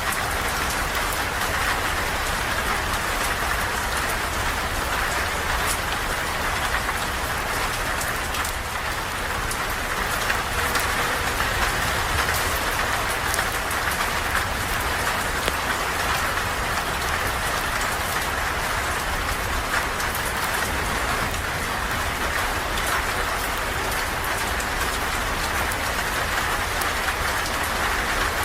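Steady rain falling, a dense even hiss with scattered sharp ticks of individual drops and a low rumble beneath.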